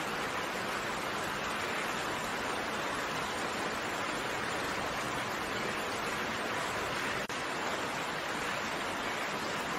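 Steady rain: an even hiss of falling raindrops with no single drops standing out, cutting out for a split second about seven seconds in.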